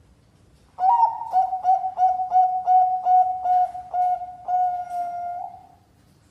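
Zebra dove (Bangkok-type perkutut) singing: a run of about ten short, clipped coos on one steady pitch, about three a second, ending in one longer drawn-out coo.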